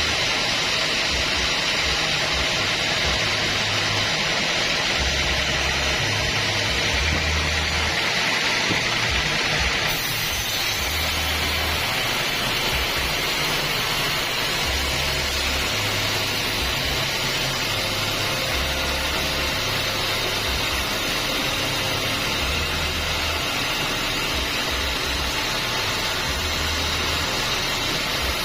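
Homemade band sawmill running steadily with a loud, even hiss and a low, uneven rumble. The sound shifts slightly about ten seconds in.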